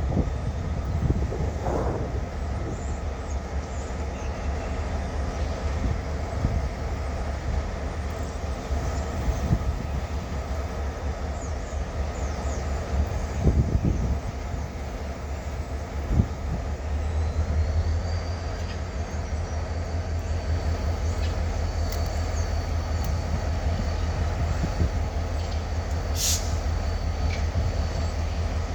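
EMD GP-series diesel freight locomotives running in a rail yard with a steady low engine rumble as they move cars. A couple of sharp knocks come about halfway through, and a brief high squeal sounds near the end.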